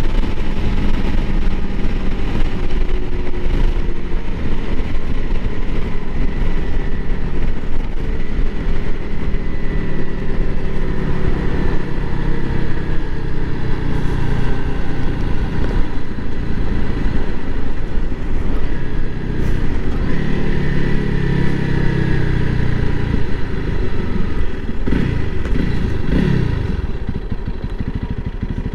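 Single-cylinder fuel-injected engine of a Honda CRF300L Rally running under way, its pitch rising and falling with throttle and gear changes. Near the end it falls away as the bike slows.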